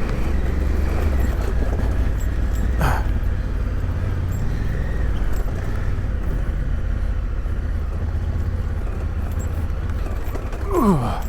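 Adventure motorcycle engine running under load off-road with a steady low rumble, its revs dropping sharply in a falling glide near the end.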